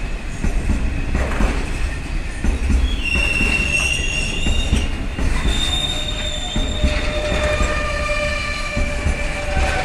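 Freight train rolling past with a steady low rumble and irregular clatter from the wheels. High, steady wheel squeals set in about three seconds in and change to a different set of pitches about halfway through.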